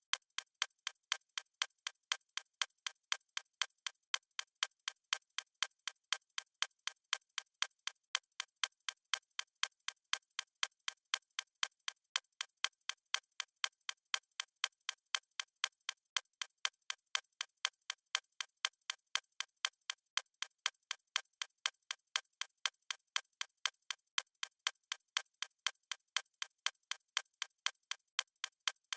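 Fast stopwatch-style ticking sound effect: sharp, high clicks at an even, quick pace, with no low end.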